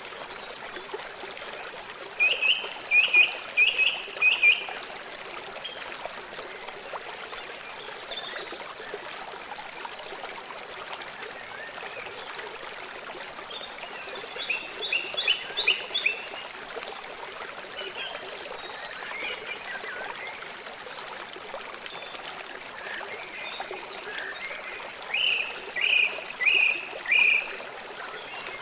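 A stream trickling steadily, with a bird calling three times in quick series of four or five short repeated notes, and a few fainter high chirps in between.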